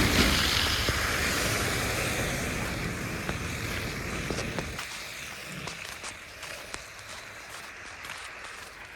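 A vehicle passes on a slushy, wet road, its tyre hiss fading away over about five seconds. Footsteps tick on the cleared sidewalk throughout.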